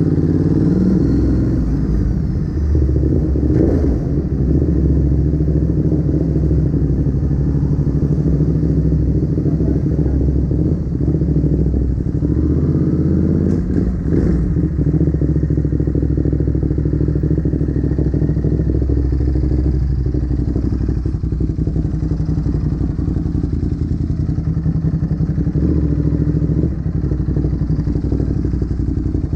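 Ducati Monster's V-twin engine running steadily, with small changes in engine speed, after a no-start problem.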